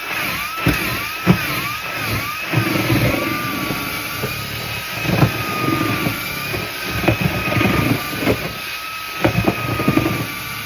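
Battery-powered paddle mixer stirring grain and cattle feed in a bucket: the motor whines, wavering in pitch for the first couple of seconds and then running steady, while the feed churns and knocks against the bucket.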